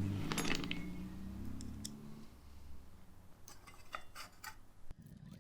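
Scattered light clicks and taps as a plastic fan casing is fitted over a pressure-washer motor and its small self-tapping screws are put in, with a few clicks close together near the end.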